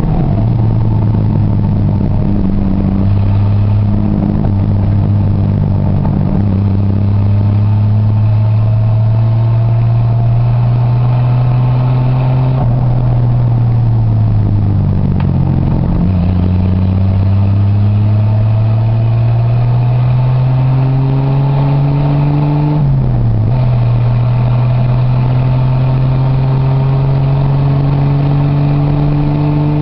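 Triumph Vitesse straight-six running through a straight-through exhaust, loud and steady under way. The engine note climbs slowly, drops back briefly about halfway and again about three quarters of the way in, then climbs again.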